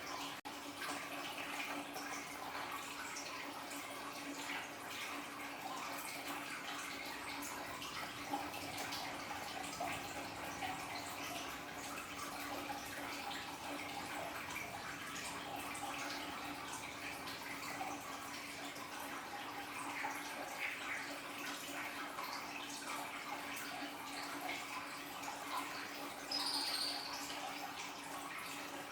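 Aquarium waterfall splashing and trickling steadily into the tank, with many small drips, over a steady low hum. A brief high squeak comes near the end.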